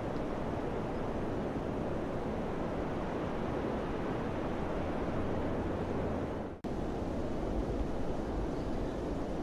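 Steady wind blowing, a dense rushing noise with a brief cut-out about two-thirds of the way through.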